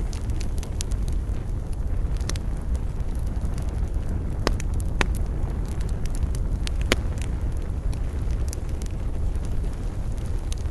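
Wood campfire burning with a steady low rumble and irregular sharp crackles and pops, a few louder snaps about four, five and seven seconds in.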